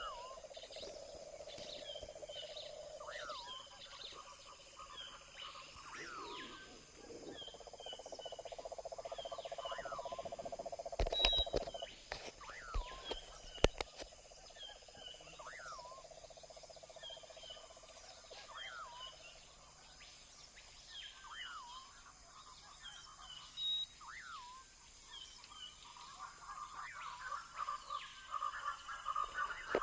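Birds calling over and over, a repeated call sweeping up and down every second or two with higher chirps between, over a steady humming drone. A few sharp knocks come about halfway.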